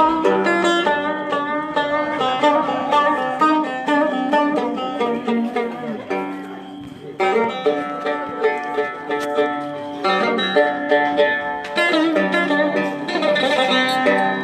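Cümbüş, the fretless banjo-like Turkish lute, playing a fast dance tune (oyun havası) in quick runs of plucked notes. It dips quieter for about a second around six seconds in, then picks up again.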